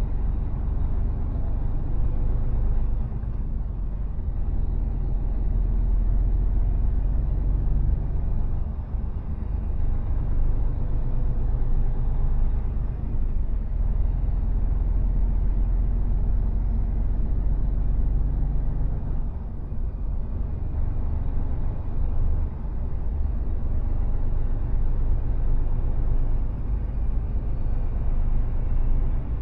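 Mercedes Actros truck driving on the road: steady low rumble of the diesel engine and tyre noise, dipping briefly twice.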